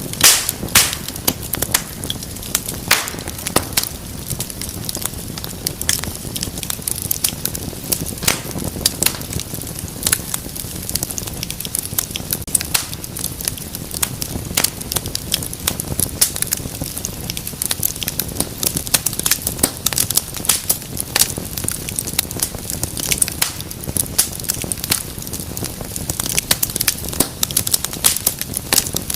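Wood fire in a fireplace crackling and popping, with sharp irregular snaps over a steady low rumble of flame.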